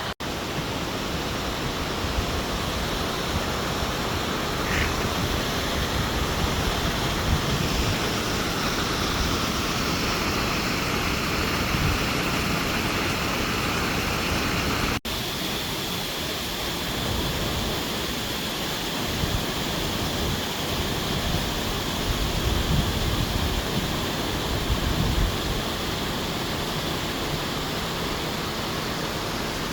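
Waterfall: a steady, loud rush of falling water, briefly cut off once about halfway through.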